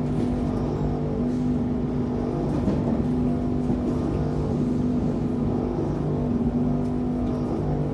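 Steady droning hum with two constant low tones over a rumbling base, heard inside the passenger car of an MI79 electric train on the RER B: the strange noise the recording is about.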